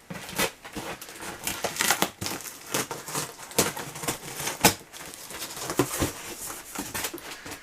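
Packaging being handled: a busy, irregular crinkling and rustling with sharp crackles.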